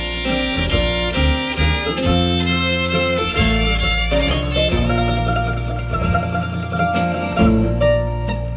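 Instrumental break in a country song, with a fiddle playing the lead over guitar.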